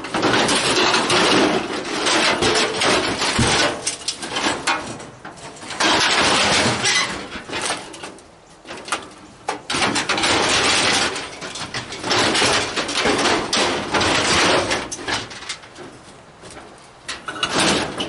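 Scrap metal being dragged and shoved into place on a load: repeated bursts of scraping and clanking metal, with sharp knocks in between.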